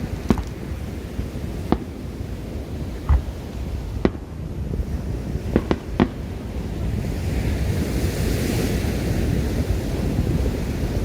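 Fireworks bursting overhead: about seven sharp, separate bangs, three of them close together about two-thirds of the way through. Under them runs a steady low wind rumble on the microphone, and near the end a rushing hiss swells and fades.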